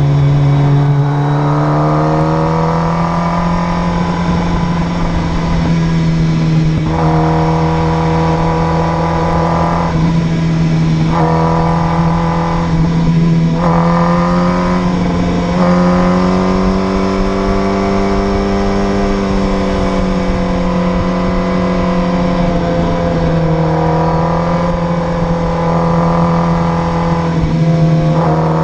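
Motorcycle engine running at highway speed, its pitch rising and falling gently with the throttle, over a steady rush of wind.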